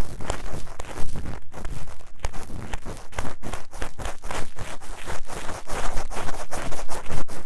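Fast, vigorous scratching and rubbing inside the silicone ear of a 3Dio binaural microphone with an ear-cleaning tool, several rough strokes a second.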